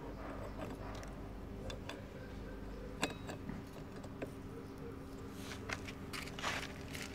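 Metal parts being handled and fitted by hand: scattered clicks and knocks, the sharpest about three seconds in, and some scraping near the end, over a steady low hum.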